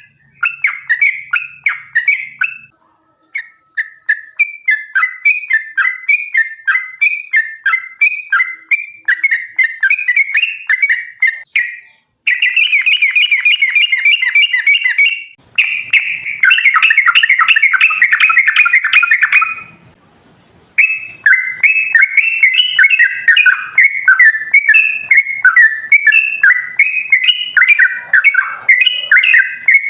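Yellow-vented bulbul (trucukan) singing: quick runs of short bubbling notes, repeated over and over. Around the middle this breaks into two long, unbroken rattling trills lasting several seconds each, then the bubbling phrases resume.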